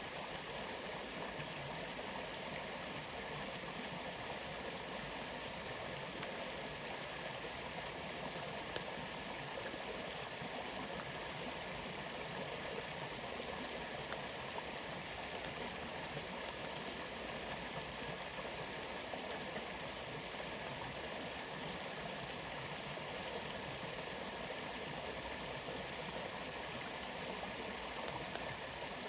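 Steady, unbroken rush of water from a rainforest waterfall, an even wash of noise that does not change.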